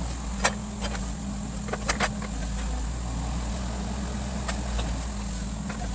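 Excavator's diesel engine running steadily at a low speed, with a few sharp knocks: one about half a second in, a quick cluster near two seconds, and two more late on.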